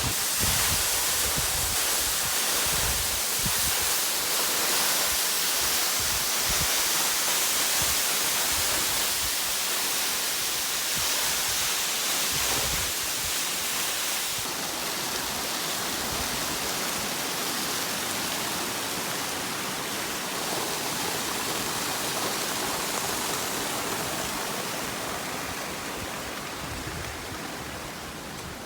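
Waterfall: a steady rush of falling water that fades slowly toward the end.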